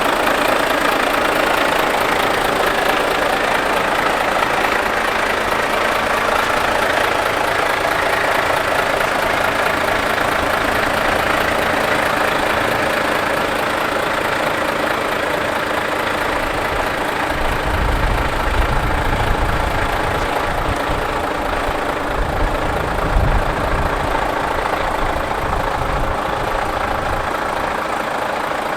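Volvo FH540 tractor unit's 13-litre inline-six diesel idling steadily. Bouts of deeper low rumble come in during the second half.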